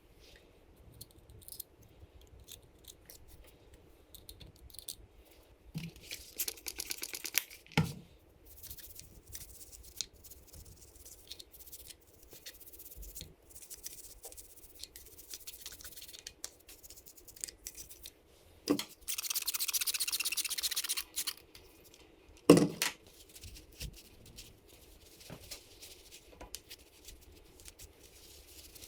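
Hand work at a workbench: scattered scratching, rustling and small clicks of parts being handled. It is broken by a steady hiss lasting about two seconds around two-thirds in and a sharp knock just after it.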